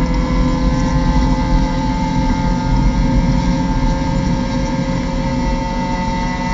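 Mazda MX-5 Cup race car's four-cylinder engine heard from inside the cockpit, pulling at near-full throttle with its pitch rising slowly as the car gains speed. The driver eases the throttle near the end.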